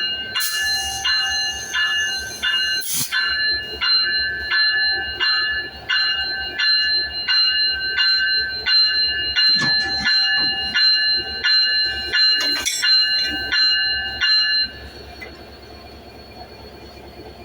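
Railway warning bell ringing over and over, about one and a half rings a second, during locomotive coupling, with a few short hisses; the ringing stops about three-quarters of the way through, leaving a low rumble.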